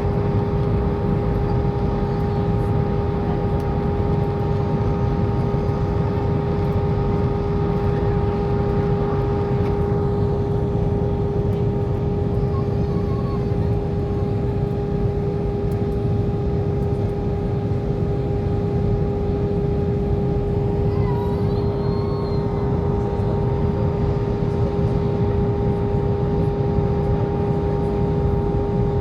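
Steady cabin noise of a passenger plane in flight: a constant engine and airflow rumble with a steady hum at a few fixed pitches, unchanging throughout.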